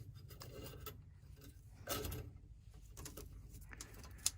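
Light metallic clinks and rattles of tools and a fitting being handled while a gas line is unhooked from a furnace. There is a short scrape about two seconds in and a sharp click near the end.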